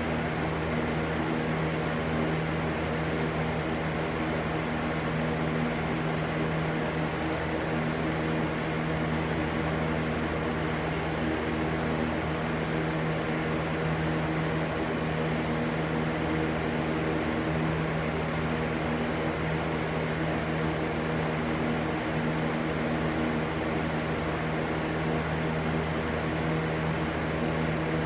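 Steady white-noise track: an unbroken rushing sound with a low, even hum beneath it that never changes.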